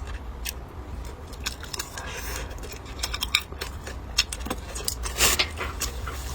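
Close-up eating sounds: an irregular run of small sharp clicks and clinks from chewing and utensils, over a low steady hum.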